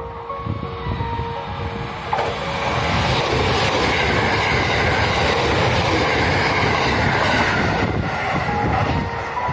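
JR West 681-series limited express electric train (Shirasagi) passing through the station at speed. The rush of wheels and running gear builds from about two seconds in, is loudest in the middle and eases near the end.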